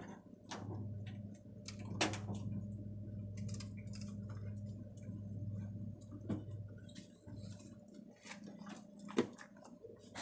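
Scattered light clicks and knocks of merchandise being handled and moved on a store shelf, the sharpest about two seconds in, over a steady low hum.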